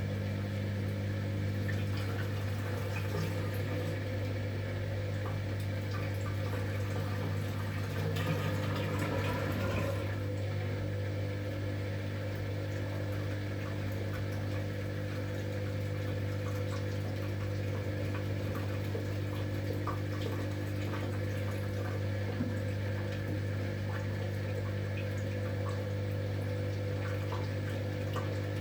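V-Zug Unimatic SL washing machine with water running through it over a steady low hum, a stage of its wash cycle where water is being moved in or out of the tub.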